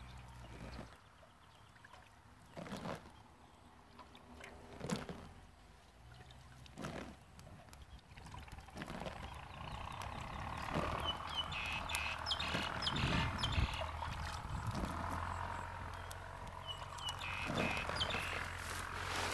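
Small birds chirping in quick series of short calls from about ten seconds in, over a steady hiss. A few separate sharp cracks come before that.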